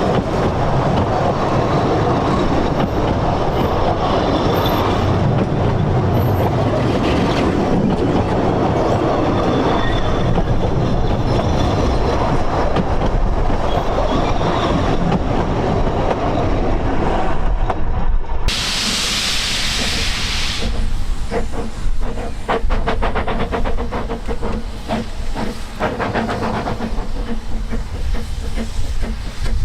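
Narrow-gauge steam train running, with a steady rumble. About eighteen seconds in, a loud hiss of steam lasts about two seconds, followed by a quick, even beat.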